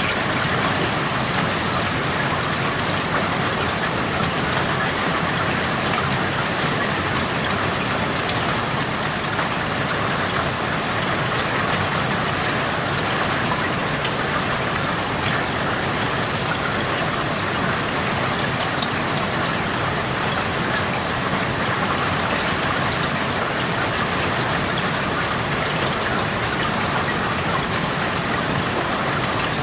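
Steady rain falling, heard through an open window: an even hiss of rainfall with scattered drops pattering on nearby surfaces.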